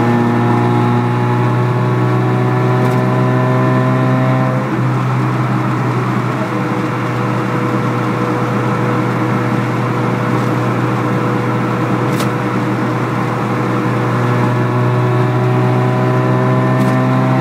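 Ford Fiesta Mk2 XR2's 1.6 CVH four-cylinder engine and Ashley 4-2-1 exhaust droning, heard inside the cabin at cruising speed. The note climbs gently under throttle, eases off about four and a half seconds in, and climbs again near the end.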